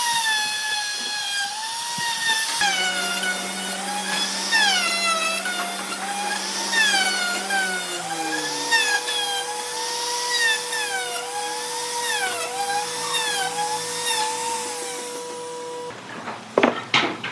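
High-speed power tool working wood, its whine dipping and recovering again and again as it bites under load. It stops near the end, followed by a few sharp knocks.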